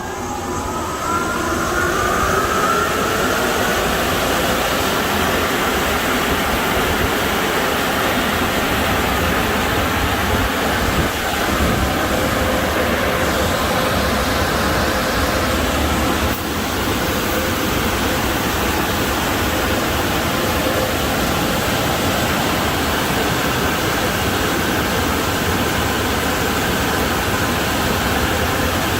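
Automatic car wash air-dryer blowers spinning up with a rising whine during the first two seconds, then blowing steadily with a loud rush of air.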